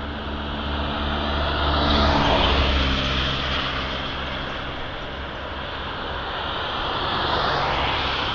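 Vehicle engine and road noise, swelling twice: about two seconds in and again near the end.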